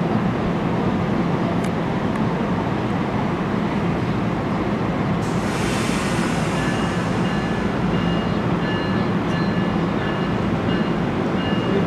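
NJ Transit bi-level commuter train rolling past and pulling away, with steady wheel-on-rail rumble. From about halfway, a thin high whine comes and goes in short stretches over the rumble.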